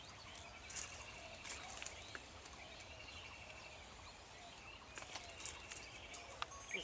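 Birds chirping and calling over faint outdoor background noise, with a short trill that repeats about every two seconds.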